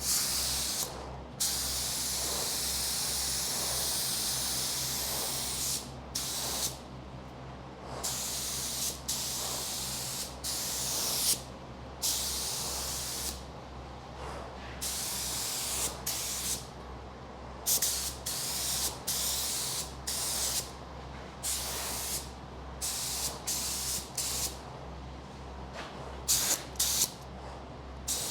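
Compressed-air paint spray gun hissing in repeated trigger bursts, one long pass of about four seconds near the start and then many short ones, as it sprays epoxy primer. A steady low hum runs underneath.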